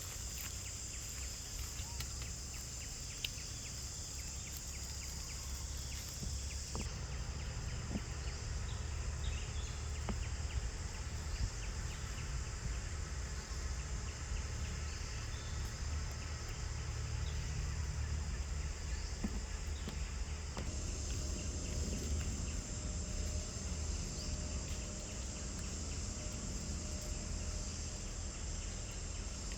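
A steady, high-pitched chorus of insects that stops about seven seconds in and comes back about two-thirds of the way through, over a constant low rumble and a few scattered small clicks.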